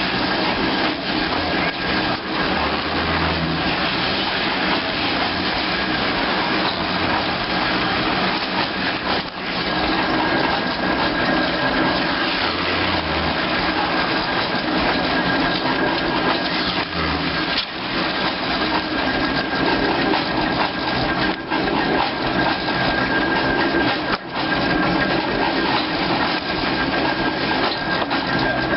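Old steam-engine-driven veneer mill running and cutting wood: a continuous clattering machine noise with a thin, steady high whine over it.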